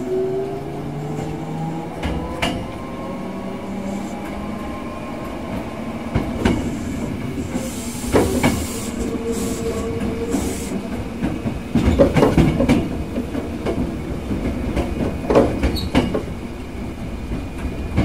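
Hankyu 6300-series electric train running, heard from inside a passenger car: a whine rises in pitch as it picks up speed in the first couple of seconds, then steady rolling noise with the wheels clacking over rail joints, several clacks close together about two thirds of the way through.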